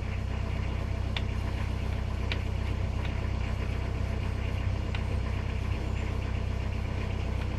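A steady low engine-like hum runs throughout, with a few light clicks from small metal parts being handled as screws go back into a starter motor.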